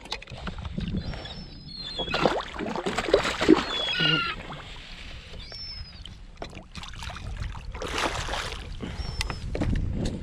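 Sea water sloshing and splashing against a fishing kayak's hull, swelling and easing. A few short high calls break through, one falling in pitch about four seconds in.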